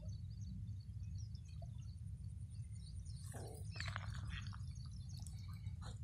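Small birds chirping on and off over a steady low rumble, with a short burst of noise about three and a half seconds in.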